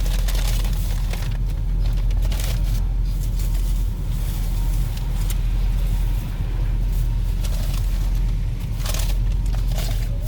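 Car wash running: a steady low rumble with irregular short hissing bursts.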